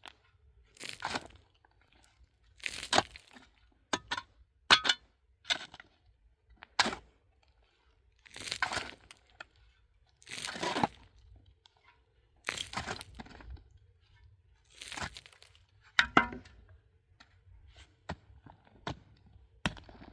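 Hand digging into rock and earth: an irregular series of sharp strikes and longer scraping crunches, roughly one a second, as a pickaxe bites in and loose material is scraped away.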